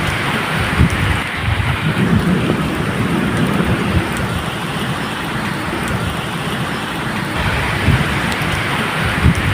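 Steady medium rain falling, with low thunder rumbling unevenly underneath.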